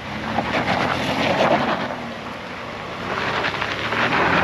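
Off-road truck's engine working as it climbs a rocky trail obstacle, with rock crunching and clattering under the tyres and wind on the microphone; it grows louder about a second in and again near the end.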